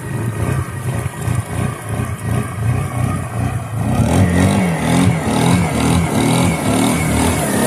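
Suzuki Eiger 400 ATV's single-cylinder four-stroke engine running under throttle. About four seconds in it gets louder and its pitch rises and falls as it revs.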